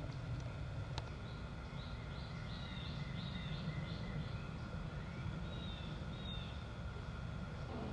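A bird singing a quick run of repeated chirps, about five a second, then a few slurred notes, over a steady low rumble.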